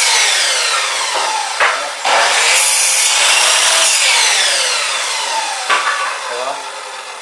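Electric chop saw cutting wood twice. Each time the motor runs loud through the cut, then winds down with a falling whine and a click. The sound fades away near the end.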